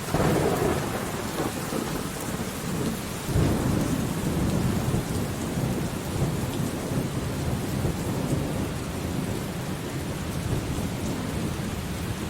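Steady rain with thunder: a rumble breaks out right at the start and a second one swells about three and a half seconds in, both slowly dying away under the rain.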